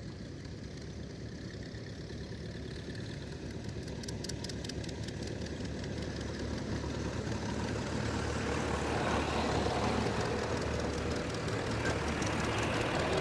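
Farm tractor engine running as it approaches, growing steadily louder, with a rapid, even exhaust beat.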